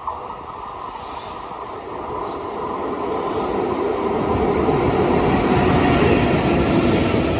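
A train approaching along the track, its rumble and rush of wheels on rails growing steadily louder and fuller toward the end, with a few brief high whines in the first couple of seconds.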